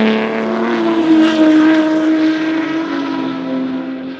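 Historic racing cars running at speed on the circuit, a loud multi-toned engine note. The note drops in pitch about three seconds in, and the sound fades toward the end.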